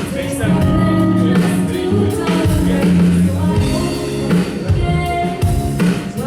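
Live band music with singing and a steady beat.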